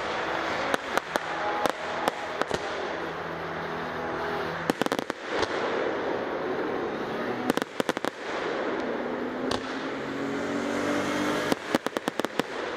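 Fireworks display: aerial shells bursting with sharp bangs, a few single reports early on, then quick clusters of them about a third of the way in, just past halfway, and near the end, over a steady background din.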